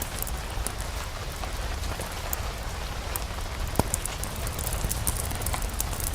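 Steady rain falling, an even hiss over a low rumble, with many short sharp crackles and a louder single pop a little before four seconds in.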